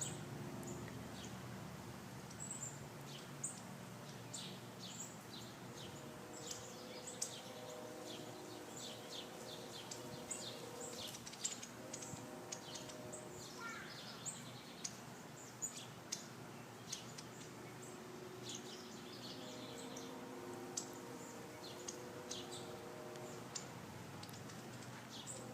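Small birds chirping: many short, high chirps scattered throughout, with one brief rising call about halfway through, over a faint steady low hum.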